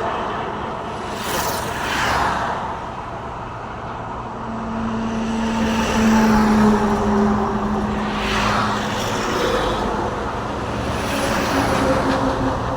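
Road traffic with vehicles passing: a steady tyre and road rumble with passing whooshes, and one vehicle's engine hum swelling to its loudest about six seconds in, then fading.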